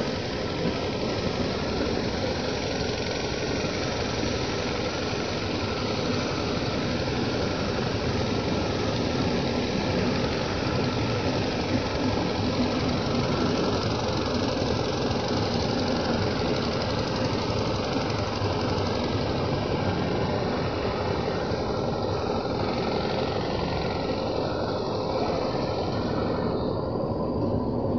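Express train passenger coaches rolling past along a platform, their wheels running on the rails in a steady, unbroken noise.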